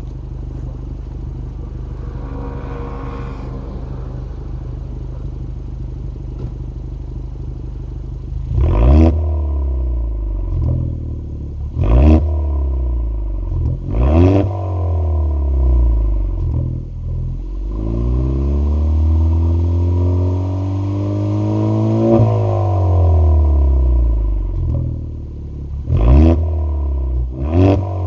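Kia Stinger 2.0 turbo four-cylinder engine heard through its variable exhaust while parked: a steady idle for about eight seconds, then a run of sharp throttle blips. Partway through it is held up in revs for a few seconds, rising and falling, before two more quick blips near the end.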